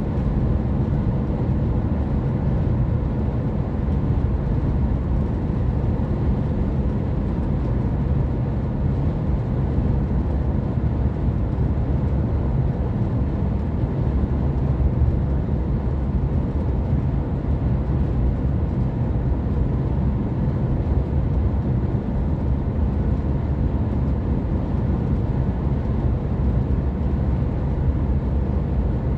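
A car driving along at steady speed: a low, even drone of engine and tyre noise.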